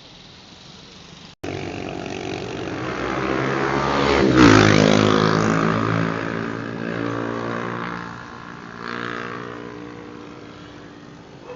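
A fast motor vehicle passing by: the engine sound starts abruptly about a second in, builds to its loudest about four seconds in, then drops in pitch and fades as it goes away.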